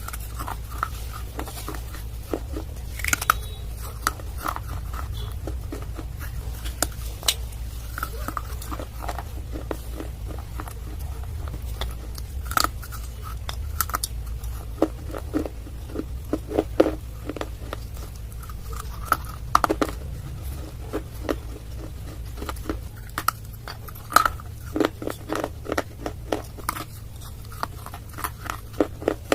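Dry clay being bitten and chewed close to the microphone: irregular sharp crunches, coming in quick clusters in the second half, over a steady low hum.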